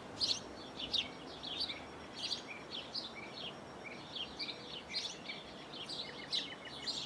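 Songbirds chirping, many short high calls one after another, with a quick trill near the end, over faint steady background noise.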